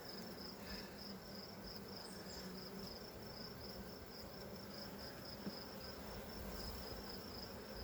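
Honey bees buzzing low and faint around an opened hive, with a high, evenly pulsed insect chirp repeating about three times a second over it.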